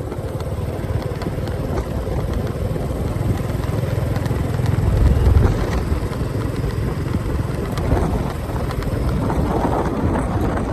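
Motorcycle running along a road, heard from the bike itself as a steady, noisy low rumble that swells to its loudest about five seconds in.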